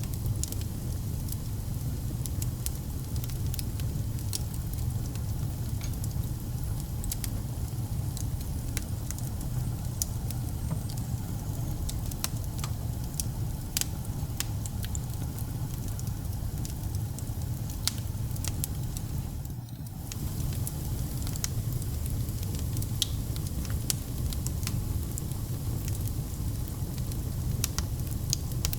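Wood fire burning in a fireplace: a steady low rumble of flames with frequent sharp crackles and pops from the burning logs, dipping briefly about two-thirds of the way through.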